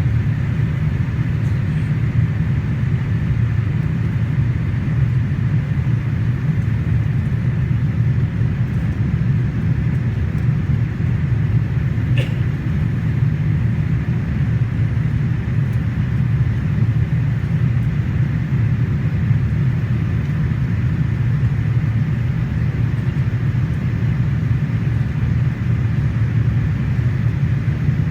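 Steady low cabin drone of a Boeing 787-8 in flight, heard from a rear window seat: the rumble of its GEnx engines and the airflow over the fuselage, without change. A faint click about twelve seconds in.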